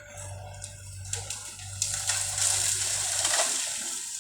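Bamboo being pushed over by an excavator: a dense rustling of leaves with scattered sharp cracks of stems, swelling about halfway through, over the low steady hum of the machine's engine.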